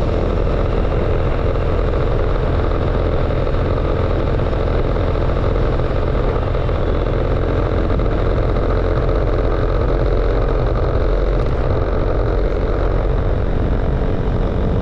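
Motorcycle engine running steadily on the move, with road noise.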